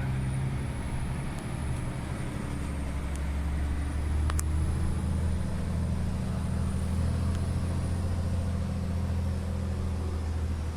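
Scania G 450 XT 8x4 truck's 13-litre straight-six diesel pulling under heavy throttle in a held gear, a steady low drone. A single click about four seconds in.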